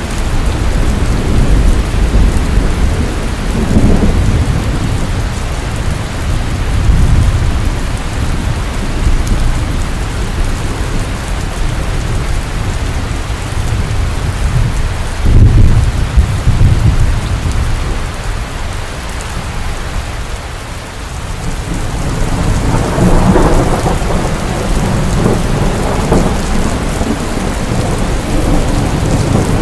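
Steady rain falling, with low rolls of thunder swelling and fading several times; the loudest comes about halfway through and a long one follows near the end.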